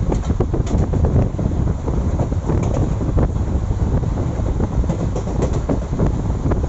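Moving passenger train coach: a steady rumble of wheels on the rails, with many irregular clicks and rattles.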